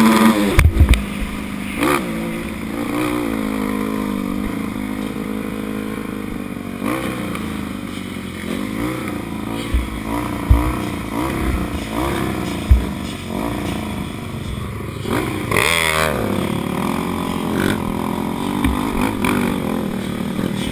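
Motocross bike engine revving up and down repeatedly as it is ridden, with occasional sharp thumps and clatter.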